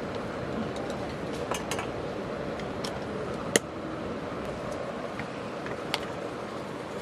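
Steady rain hiss with a wood campfire crackling over it in scattered small pops, the sharpest pop coming about halfway through.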